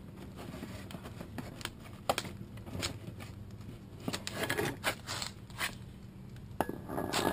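Irregular clicks, scrapes and rustles of engine parts being handled and moved about, over a faint steady low hum.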